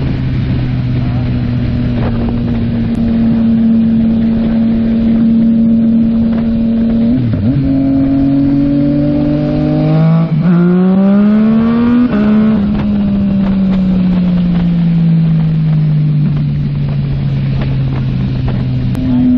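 Motorcycle engine heard while riding: a steady cruise for about seven seconds, then a brief dip, then rising revs for about five seconds with a quick break partway, then the pitch falls slowly as it rolls off, over road and wind noise.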